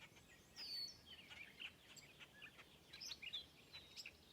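Faint birdsong: several birds chirping, with short swooping whistles among the chirps.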